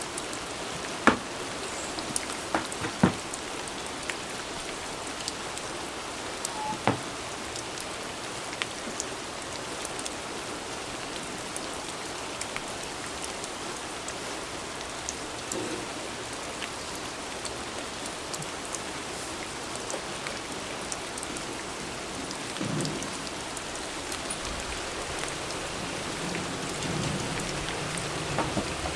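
Steady rain falling, an even hiss of drops on the surfaces outside, with a few sharp louder taps in the first seven seconds.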